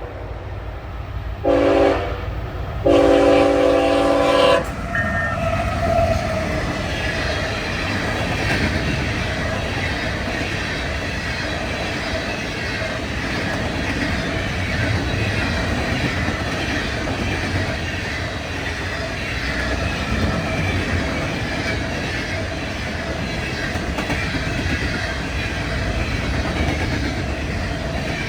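A CSX freight locomotive's multi-chime air horn sounds the tail of one blast, a short blast and then a longer one that ends about four and a half seconds in. After that the locomotives and a string of empty ballast hopper cars roll past steadily, wheels clacking over the rail joints.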